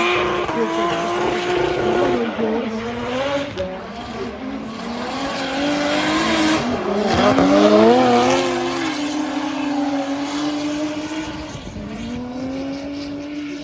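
BMW E46 drift car with a swapped-in Toyota 2JZ straight-six engine revving up and down through a drift, with tyre squeal; it is loudest about eight seconds in and fades near the end.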